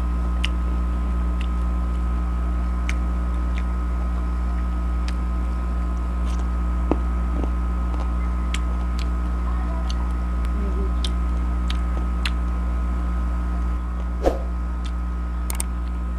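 Mango slices being chewed: small crisp clicks of crunching and mouth sounds about once a second, one louder about 14 seconds in, over a steady low electrical hum.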